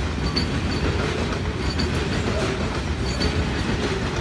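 A freight train of covered hopper cars rolling past at steady speed: a continuous rumble of wheels on rail, with short high-pitched wheel squeals now and then.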